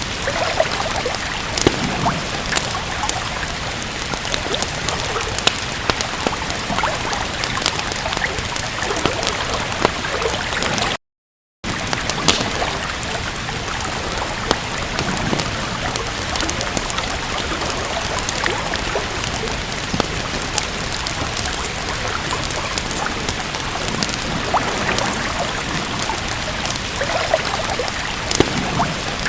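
Steady rain with a wood fire crackling, the sharp pops and snaps scattered irregularly over the rain's hiss. Near the middle, the sound cuts out completely for about half a second and then comes back.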